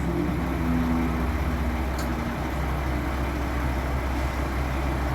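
Twin turbofan engines of a Beechcraft 400A business jet running, a steady rumble, with a low hum that fades out about two seconds in.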